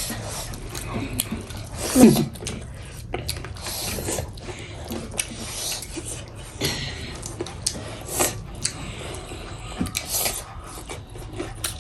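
Close-miked chewing and mouth sounds of people eating by hand: many small wet clicks, smacks and rasping bites, irregular and unbroken.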